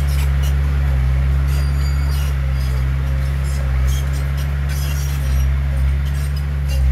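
Heavy diesel earthmoving machinery running steadily, a deep even engine drone with light metallic clinks and rattles over it.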